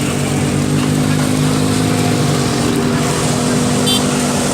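A motor vehicle's engine running at a steady speed, a constant hum over road noise, with a brief high chirp near the end.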